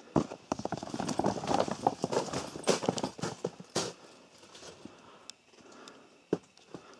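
A rapid run of knocks and clatter for about four seconds, thinning out to a few scattered knocks after that.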